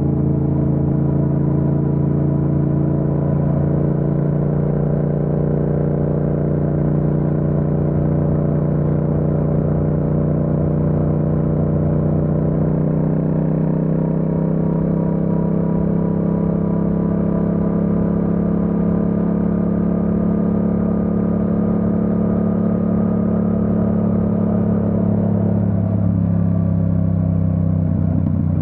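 Yamaha MT-07's parallel-twin engine running at steady cruising revs, its pitch climbing slowly as the bike gathers speed, then dropping about three seconds before the end and settling again.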